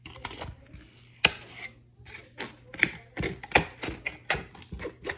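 Lexan scissors snipping through thin plastic kit parts: a quick, irregular run of sharp snips, about two or three a second.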